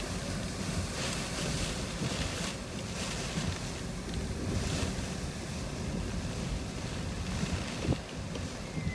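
Hurricane-force wind roaring and buffeting the microphone, surging in gusts every second or so. A single thump about eight seconds in.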